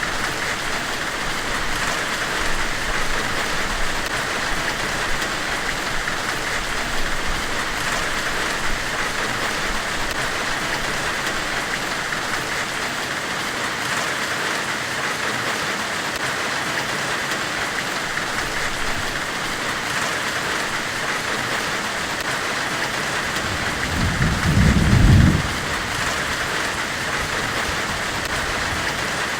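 Steady white-noise hiss, billed as the hiss of a forge weld, with a few faint ticks and a deep rumble lasting about a second near the end.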